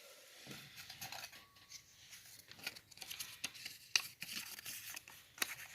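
Faint rustling and crinkling of paper with scattered small clicks, as a folded name slip is drawn and unfolded.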